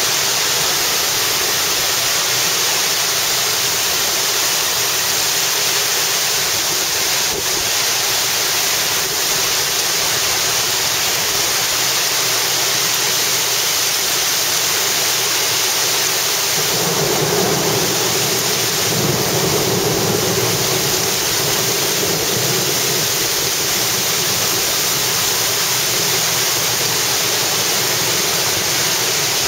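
Heavy rain pouring down in strong wind, a loud, steady rushing hiss. A little past the middle a deeper rushing swells for a few seconds, then settles back.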